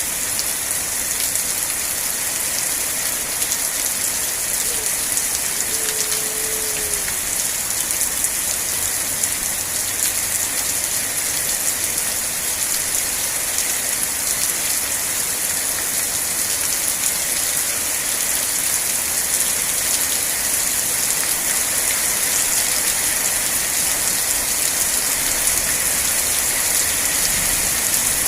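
Steady rain falling, an even hiss with no letup. A short, faint falling tone sounds once about six seconds in.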